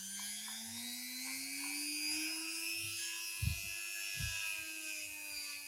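An electric power tool's motor spinning up, its whine rising in pitch over the first two seconds and then running steadily, with two low thumps a little past the middle.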